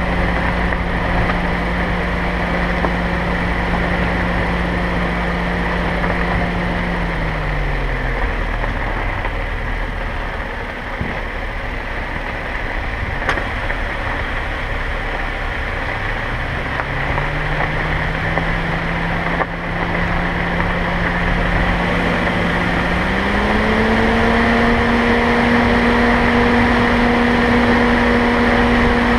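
Car engine and road noise heard while driving. The engine's pitch drops about seven seconds in as the car slows, then climbs again as it picks up speed and holds higher near the end.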